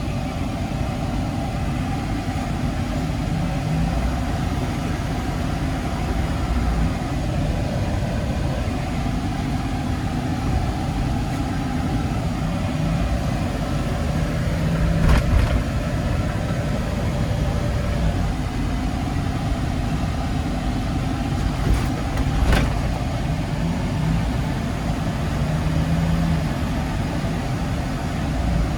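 A 2019 Kia Bongo 3 cargo truck's diesel engine and road noise, heard from inside the cab while driving. The engine runs quietly and steadily, and there are two short thumps, one about halfway through and one later.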